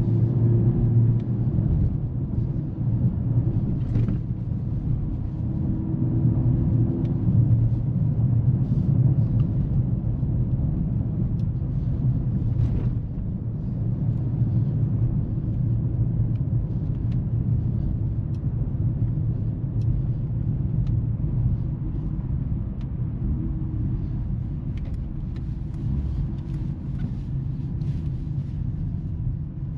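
Mercedes-AMG GLC 43's turbocharged four-cylinder engine and tyre noise while driving: a steady low rumble, with a higher engine note easing off at the start and briefly coming back a few seconds in.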